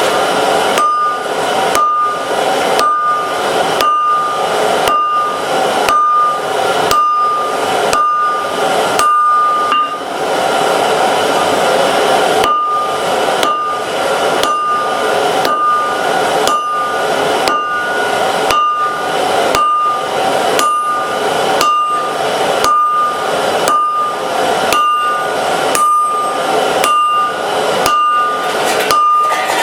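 Hand hammer striking hot steel on an anvil at an even pace of about three blows every two seconds, the anvil ringing between blows, with a steady rush underneath. The blows stop for about two seconds around a third of the way in, then resume.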